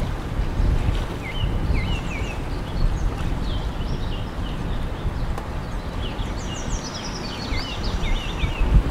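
Several small birds chirping, with short rising and falling calls and a few quick trills, over a steady low rumble.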